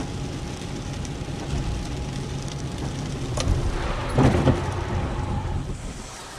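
Car on the move: steady engine and road rumble, with a short, louder rough noise about four seconds in.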